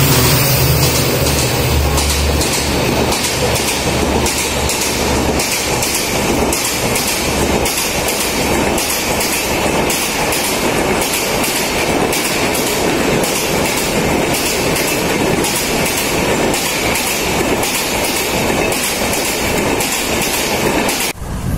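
A passenger train led by a WDP4D diesel locomotive passes close by. The locomotive's engine gives a heavy low rumble for the first few seconds, then the coaches roll past with a steady, regular clatter of wheels over the rail joints. The sound drops off suddenly about a second before the end.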